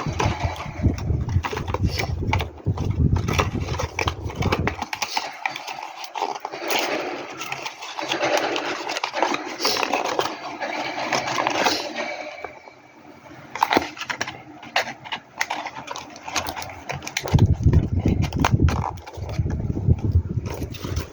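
Handling noise from skincare packaging and product containers: many sharp clicks, scrapes and rustles. Stretches of low rumble come at the start and again near the end.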